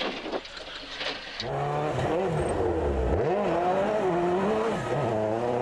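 Rally car engine at full throttle, its pitch climbing and dropping with the gear changes, with one deep dip about three seconds in. It comes in abruptly about a second and a half in, after a quieter stretch.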